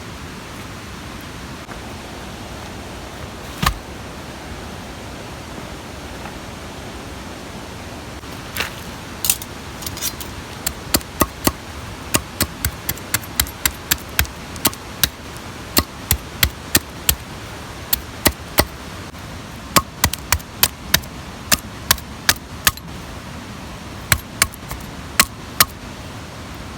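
Steady rush of a mountain stream. A lone sharp knock comes a few seconds in, and from about a third of the way through a long irregular run of sharp clicks or taps follows, roughly two or three a second.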